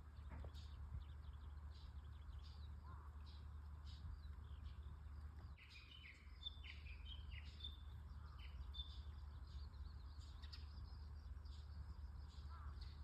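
Small birds chirping and calling in short notes, with a quick run of chirps about halfway through, over a steady low rumble.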